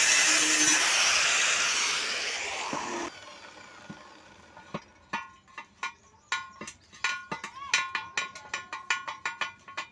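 A power tool cutting or grinding with a loud, harsh hiss, fading and cutting off about three seconds in. A little later comes a rapid, uneven series of light metal clinks and taps, each ringing briefly, as of metal parts being struck or knocked together.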